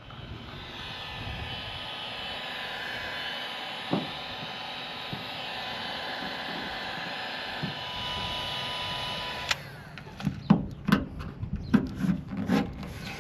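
Heat gun blowing steadily with a faint whine for about nine seconds to soften a truck emblem's adhesive, then cut off sharply. Sharp clicks and knocks follow as the emblem is pried off.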